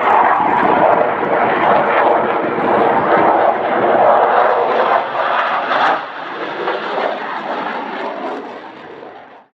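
Eurofighter Typhoon jet engines, a loud steady rush of jet noise that drops away about six seconds in, fades and cuts off suddenly near the end.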